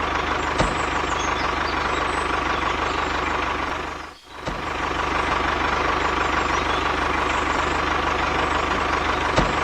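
Motor of a DIY mini tractor running steadily with a constant whine. It drops out briefly about four seconds in, then carries on.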